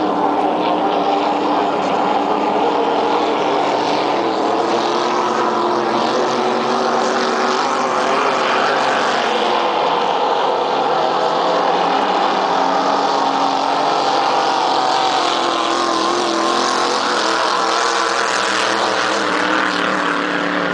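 Race boat engines running at speed in a steady, loud drone, their pitch slowly rising and falling.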